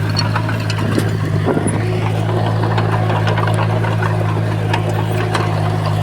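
Diesel engine of a Komatsu bulldozer running steadily, with scattered short clanks and clicks over the drone.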